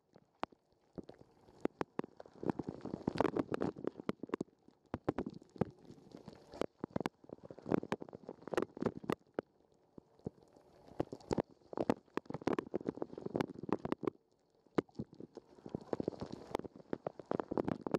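Water spraying and splashing over a waterproof sports camera's housing inside a running dishwasher, heard from inside the case. It comes in muffled, churning surges every second or two, with many sharp taps of water striking the housing.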